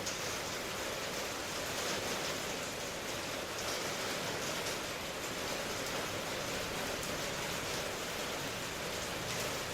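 Steady rain falling, an even hiss with faint patter and no breaks.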